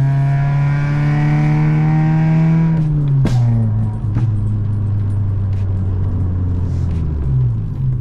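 VW Golf 5 1.4 FSI four-cylinder petrol engine pulling with slowly rising revs. About three seconds in there is one sharp bang as the revs drop off, then scattered pops and crackles from the exhaust over a lower, steady engine note.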